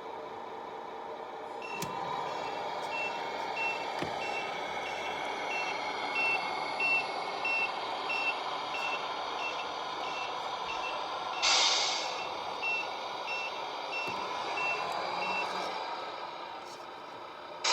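Sound unit of a Tamiya Scania RC truck playing a reversing alarm, a high beep about twice a second, over a steady truck-engine sound. A short loud hiss comes about two-thirds of the way through, and the beeping stops near the end.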